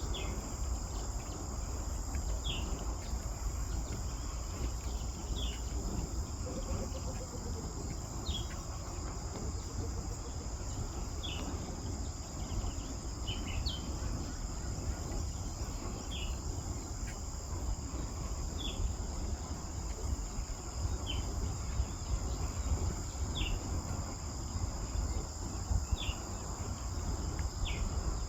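A steady, high-pitched chorus of forest insects, with a short chirping call repeated about every two and a half seconds over a low background rumble.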